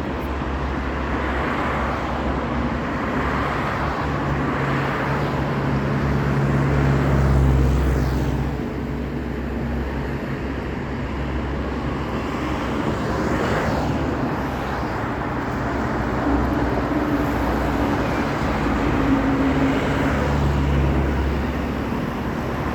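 Street traffic: a motor vehicle's engine running with steady traffic noise, the engine hum swelling about seven seconds in and again near twenty seconds.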